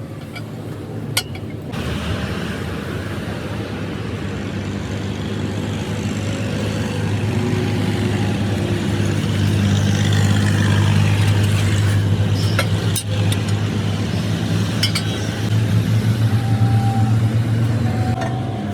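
Truck engine running steadily, rising in level around the middle and again near the end, with a few sharp clicks.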